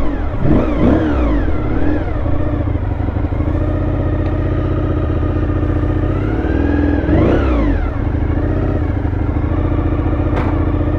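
Honda VFR400R NC30's V4 engine running as the motorcycle is ridden, its revs rising and falling near the start and again about seven seconds in. A brief click near the end.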